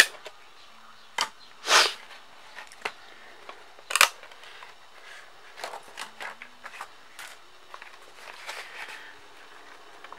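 Plastic DVD case being handled as discs are pried off their hubs: a few sharp plastic clicks and snaps, a short scrape about two seconds in, and light rattling and handling in between.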